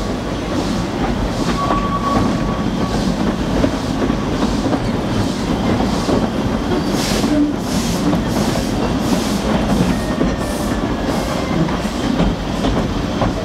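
Narrow-gauge heritage train running steadily, heard from on board: a continuous rumble with a regular clickety-clack of the wheels over the rail joints.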